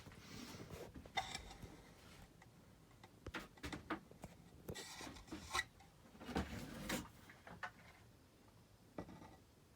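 Scattered rubbing and light knocks from things being handled, in irregular bursts, with a sharp knock about a second in and a single tap near the end.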